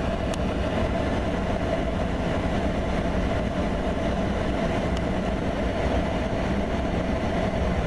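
An engine running steadily, a constant drone with a low rumble beneath it.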